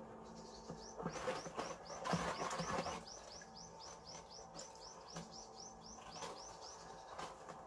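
A songbird singing a long, even run of high, arching chirps, about five a second. About a second in, a louder splashing and rubbing lasts for two seconds, from hands working in a bucket of sugar syrup.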